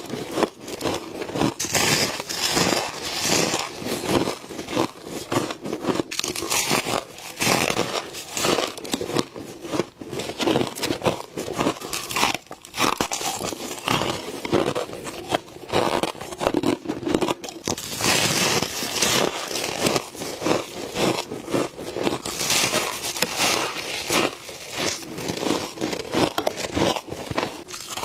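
Close-up biting and chewing of powdery frost, with squeaky, crispy crunching in rapid, irregular clusters of crackles.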